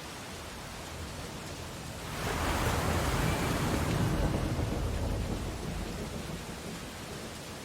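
Sea waves on a beach: a steady surf hiss, with one wave breaking about two seconds in, swelling quickly to a loud rush and then fading away as it washes out.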